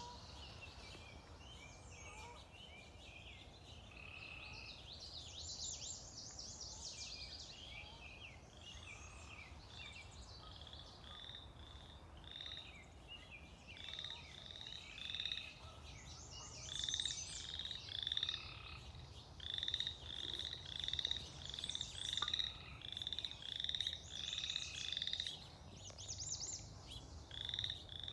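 Chorus of calling animals after rain: short pulsed calls that settle into a regular series of about one a second and grow louder about halfway through, with occasional higher buzzy trills over them.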